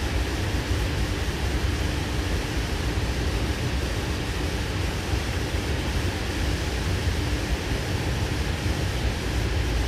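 Steady rumble and hiss of a Sydney Trains K-set double-deck electric train running along the track, heard from inside the passenger carriage, with a faint steady hum underneath.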